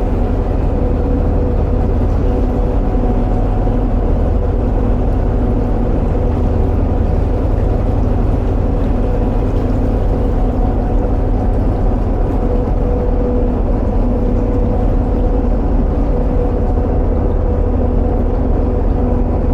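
Narrowboat engine running steadily at cruising speed inside a canal tunnel, a constant low rumble with a steady hum.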